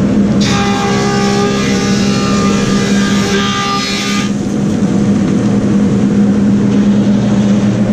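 Woodmaster thickness planer running with a steady hum, cutting a white oak board for about four seconds, which adds a dense, high, whining note over the motor, then running unloaded once the board clears.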